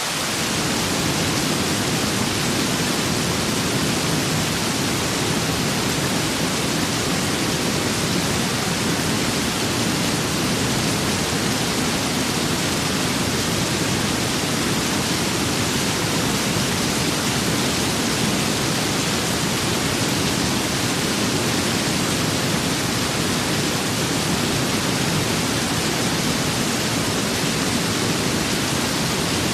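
Steady rain and wind: a dense, even hiss with no distinct drops or gusts. A deeper rumble comes in right at the start and then holds steady.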